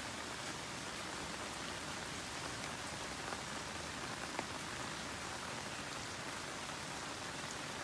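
Steady rain falling on leafy garden plants, an even hiss, with one sharper drip tick about four and a half seconds in.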